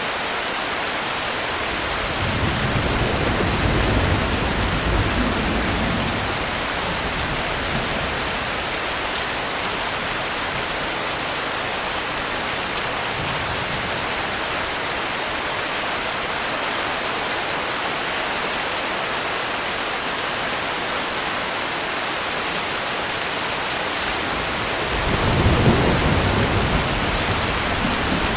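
Steady heavy rain with two low rolls of thunder: one starting about two seconds in and lasting a few seconds, and another near the end.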